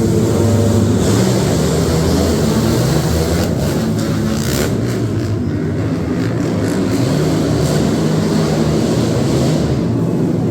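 Monster truck engines running hard and loud.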